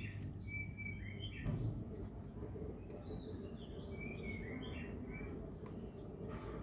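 Small birds chirping in short bursts, in two clusters about half a second in and again around three seconds in, over a steady low background rumble.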